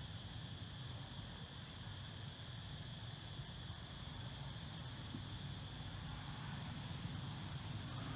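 Forest ambience: an insect chirping in an even rhythm, about three high chirps a second, with a steady high insect drone over a steady low rumble.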